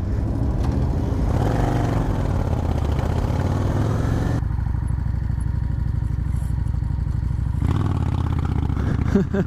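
Motorcycle engine running under way, with a steady hiss over it. The engine pitch rises over the first few seconds, and the hiss drops away for a few seconds in the middle.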